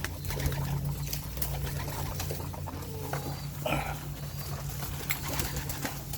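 Young racing pigeons in a loft: scattered clicks and rustles of feet and wings, with one short pigeon call about three and a half seconds in, over a steady low hum.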